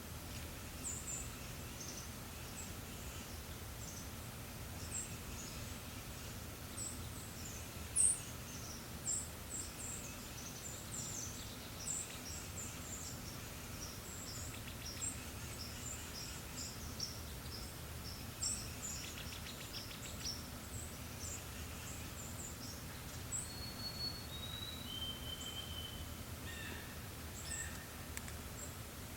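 Forest birds chirping and calling: many short, high chirps throughout, with a few clear held whistled notes, each a step lower than the one before, near the end, over a steady low background.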